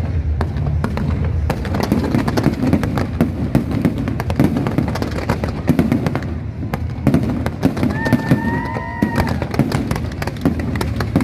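Fireworks going off in a dense, continuous crackle of bangs and pops over a low rumble, with a brief whistle about eight seconds in.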